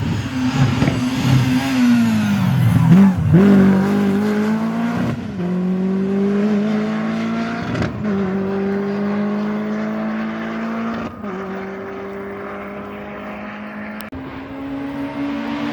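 Rally car engine braking hard with its pitch falling, loudest about three seconds in, then accelerating away at full throttle. It changes up through the gears with three upshifts, each a rising note that drops back, and fades as it gets farther away.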